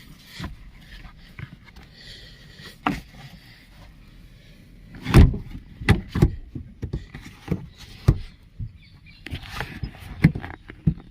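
Clicks and clunks of a Tata Indigo CS rear seat lock being pushed and worked by hand, the latch not catching firmly. A few light clicks come first, then a run of heavier knocks about five seconds in.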